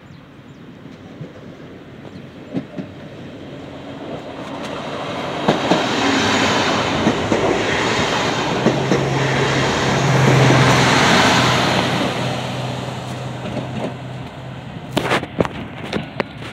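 SA136 diesel multiple unit pulling into the platform and passing close by: the rumble builds over the first few seconds, its wheels click over the rail joints, and a low steady engine hum peaks about ten seconds in before the sound fades as it rolls past and slows. A few sharp clicks come near the end.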